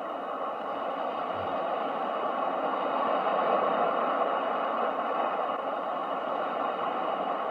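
Ocean waves: a steady rushing wash that slowly swells to a peak about three and a half seconds in, then eases off.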